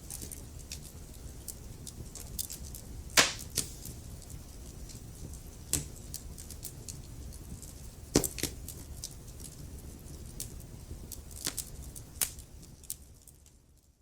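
Wood fire crackling: a steady low rumble with scattered sharp pops, the loudest about three seconds in and again about eight seconds in. The sound fades out at the very end.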